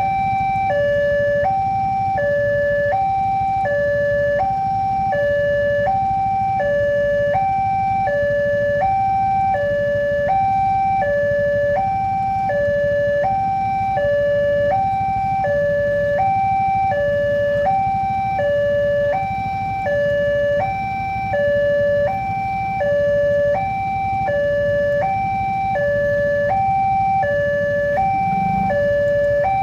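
Indonesian level-crossing warning alarm sounding a steady two-tone electronic signal, high and low notes alternating about once a second: the crossing is active for an approaching train. Under it is a low rumbling noise.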